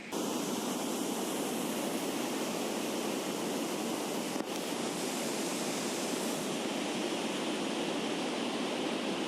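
Heavy high-volume water flow rushing at a dam, a steady, unbroken rush of water noise.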